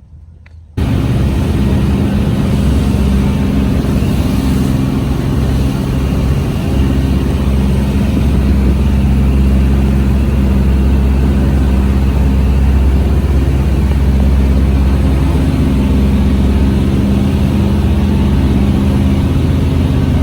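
Engine of the lagoon tractor running steadily, a loud low hum with a constant pitch, starting suddenly about a second in.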